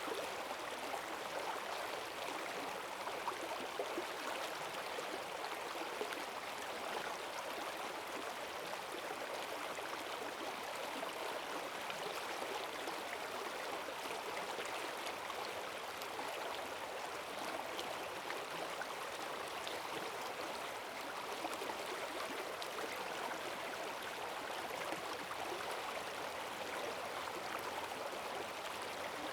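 Forest stream swollen with rainwater rushing and gurgling steadily over its bed, a strong current.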